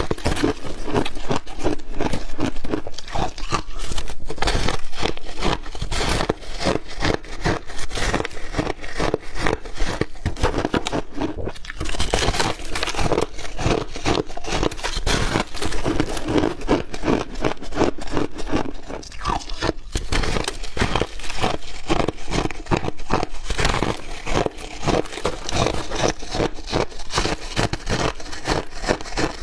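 Chunks of ice being bitten and chewed: a loud, dense, continuous run of crunches and crackles.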